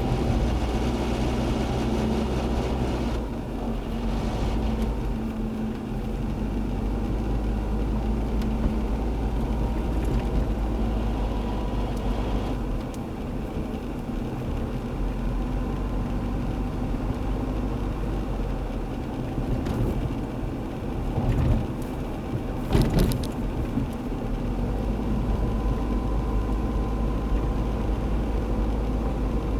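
2003 Nissan Altima 2.5S's four-cylinder engine running with a steady low drone and a fainter higher whine, and a brief louder clatter about three-quarters of the way through. The owner traced the car's awful noise to low engine oil.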